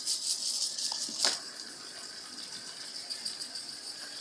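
Robot vacuum running with a steady high whine, rattling and clattering in the first second and a half, with one sharp knock about a second in, as it works against the cardboard under its charging base.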